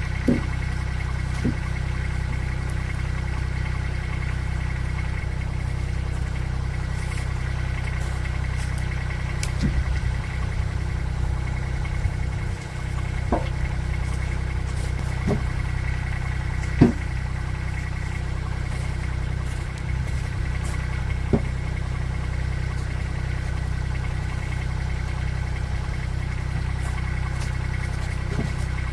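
An engine running steadily at idle, with occasional short sharp knocks or clunks over it.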